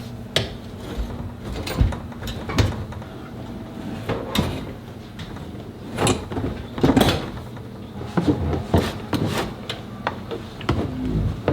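Irregular clicks, knocks and clunks of hand tools working bolts loose in a truck cab, with no power tools.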